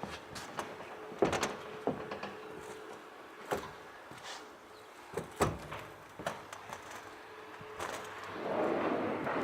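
Scattered sharp knocks and clicks of handling on the truck's body, with a louder stretch of rushing noise near the end.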